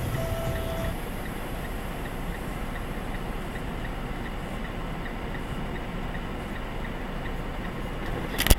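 Steady vehicle running noise picked up by a dashcam, with a faint regular ticking about twice a second, and a loud sharp burst of noise right at the end.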